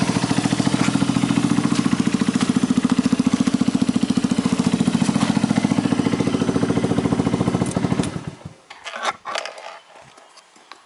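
Yamaha Grand Majesty 250 scooter's single-cylinder engine idling through an aftermarket muffler with an even, rapid exhaust beat, then shut off about eight seconds in. A few short scrapes and knocks follow.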